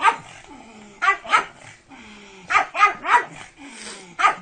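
Pug wearing a plastic cone collar barking repeatedly: about seven short barks, some in quick runs of two or three.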